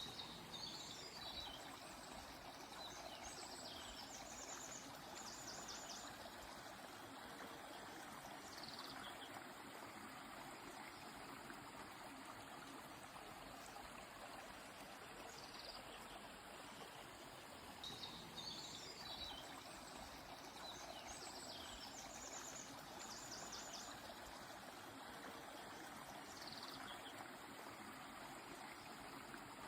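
A stream flowing steadily, with small birds singing high chirps and quick trills in two spells: in the first few seconds and again about two-thirds through.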